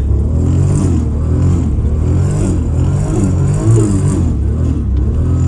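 Toyota Supra MK4's 1000 hp 2JZ inline-six under way, its engine note repeatedly rising and falling as the throttle is worked.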